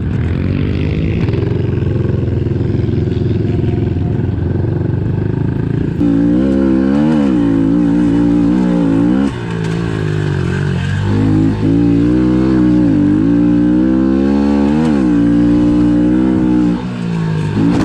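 Pit bike's small single-cylinder four-stroke engine running hard. About six seconds in it gets louder and the revs rise and fall again and again, dropping off sharply a few times as the throttle is chopped and opened.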